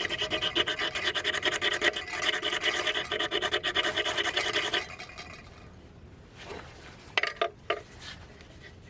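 A ferrocerium fire-starter rod scraped hard and fast with a striker to throw sparks for a campfire: rapid repeated strokes with a metallic ring for about five seconds, then a few sharp clicks.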